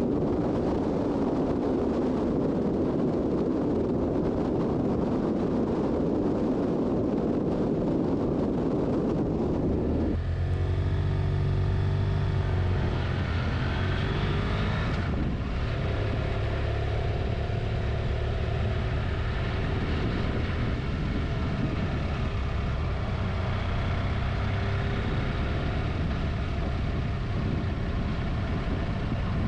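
Motorcycle under way: wind rushes over the microphone, then about ten seconds in it cuts abruptly to the BMW F800GT's parallel-twin engine running steadily, its pitch rising and falling a few times soon after.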